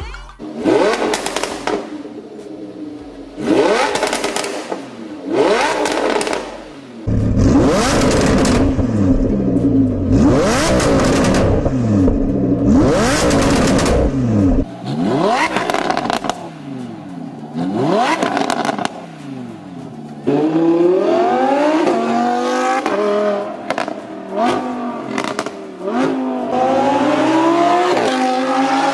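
Lamborghini Huracán LP610-4 Spyder's 5.2-litre V10 with an Fi valvetronic catback exhaust, valves open, revved in repeated sharp blips with one longer high-rev hold. About twenty seconds in it switches to accelerating, the pitch climbing and dropping back again and again.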